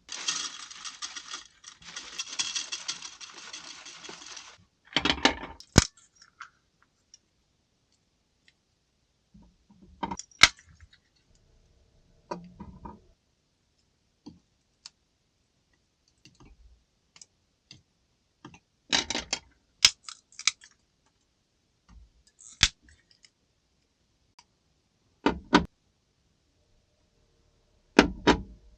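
A steady hiss for about four and a half seconds, then scattered clinks, clicks and knocks of small objects being handled, a few at a time with pauses between.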